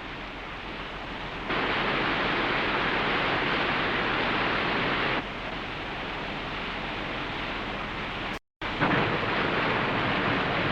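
Rushing white water of a river waterfall and rapids, a steady roar that jumps louder, drops back and cuts out briefly between shots, with a low steady hum underneath.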